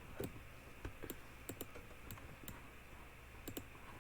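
Faint, irregular clicking from a computer's mouse and keys, about a dozen sharp clicks, over a low steady hum.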